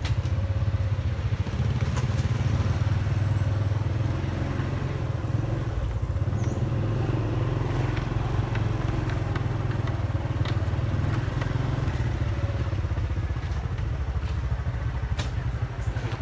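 Motorbike engine running with a steady low rumble of engine and road noise, with a few faint clicks.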